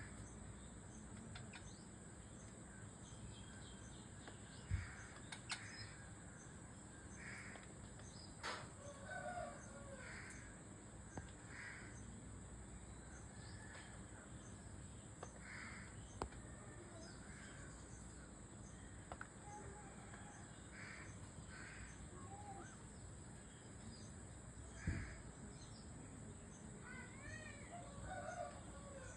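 A parrot giving faint, scattered short chirps and squawks, with a few sharp knocks in between.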